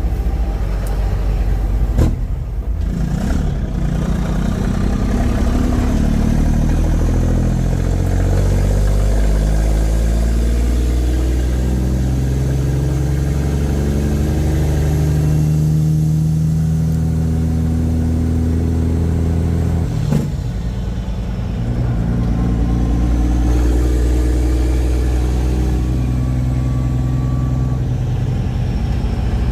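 Semi truck's diesel engine running under load while driving. Its pitch climbs and levels off in steps as it works through the gears, with a click and a brief dip about two-thirds of the way through.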